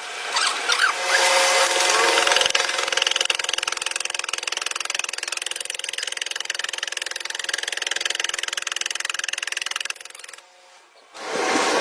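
A small handheld power tool running under load for about ten seconds, then cutting off suddenly.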